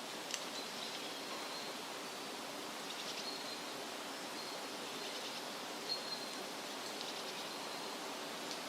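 Wind rustling through leafy trees in a steady wash, with small birds chirping now and then in short high notes. Two sharp ticks stand out, one just after the start and one about six seconds in.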